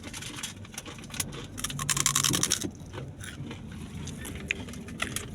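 Crinkling and rustling of a plastic snack bag being handled and opened, with scattered clicks and a denser burst of crinkling about two seconds in.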